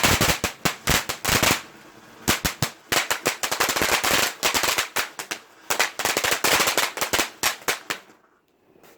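Garden firework going off in a rapid, dense string of sharp crackling bangs. It pauses briefly about a second and a half in, resumes, and stops about eight seconds in.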